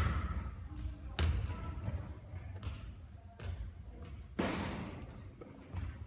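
Basketball bouncing on a court: several separate thuds at uneven gaps, each ringing out briefly, the loudest about a second in and about four and a half seconds in.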